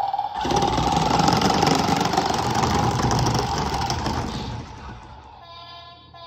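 Recorded diesel-truck engine sound effect from a toy dump truck's small speaker. A steady tone stops about half a second in, the engine sound runs for about four seconds and fades, and a short buzzy tone sounds near the end.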